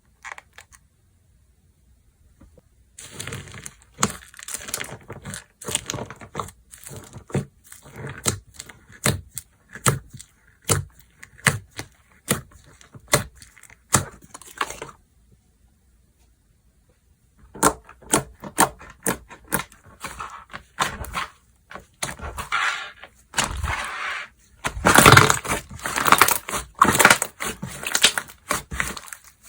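Slime being squeezed, stretched and pressed by hand, giving dense runs of sticky pops and crackling clicks, with a pause of about two seconds midway.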